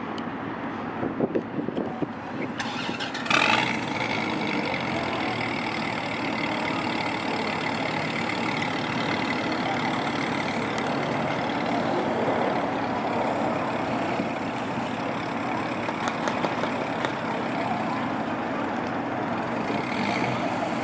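A car engine starts with a loud burst about three seconds in, then keeps running steadily.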